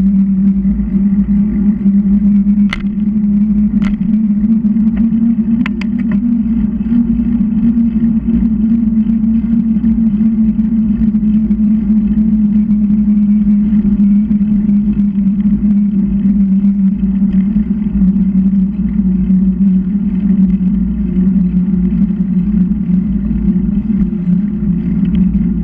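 Steady loud rumble and drone of a bicycle ride picked up on the ride camera, with a few sharp clicks about three to six seconds in.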